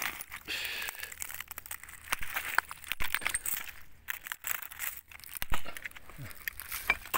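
Irregular rustling and crunching of dry debris as a person moves through rubbish and brush while scrap-hunting, with a couple of sharper knocks.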